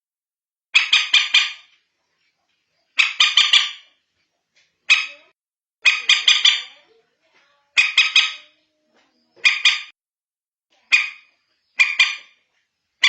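A recording of common moorhen calls, played as a lure. The calls come in quick runs of one to five short notes, and a run repeats every second or two, about eight times.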